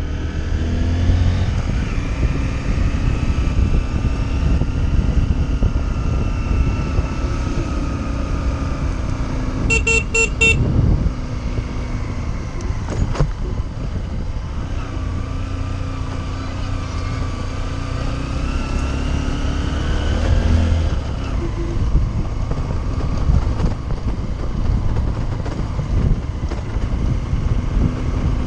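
Motorcycle engine running on the road, its pitch rising and falling with speed, over wind rumble on the microphone. A vehicle horn honks briefly about a third of the way in.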